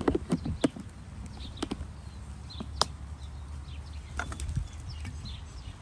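Chicken frying in oil in a nonstick pan over a charcoal grill, crackling and spitting in scattered sharp pops, busiest near the start and again about four seconds in.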